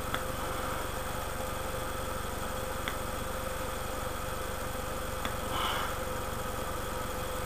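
A steady mechanical hum with a constant tone in it, broken by a few faint clicks.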